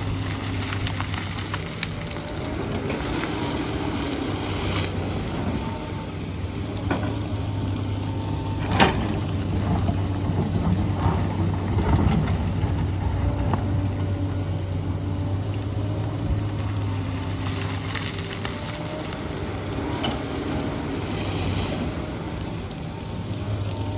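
Excavator's diesel engine running steadily under load, with a few sharp knocks from the machine at work. The loudest knock comes about nine seconds in and another around twelve seconds.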